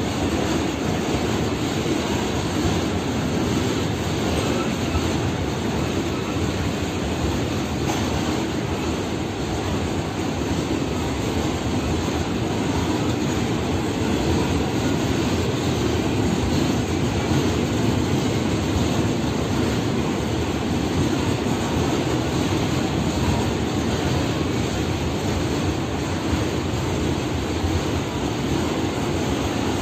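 Freight train of open-top gondola wagons rolling past, a steady continuous rumble of wheels on rails that does not let up.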